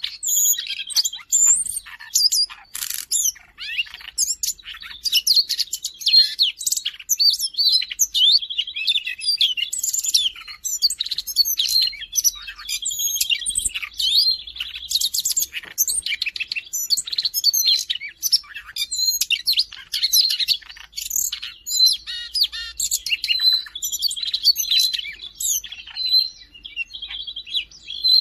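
Siberian rubythroat singing a fast, continuous, varied warbling song of high notes, broken now and then by short buzzy trills held on one pitch.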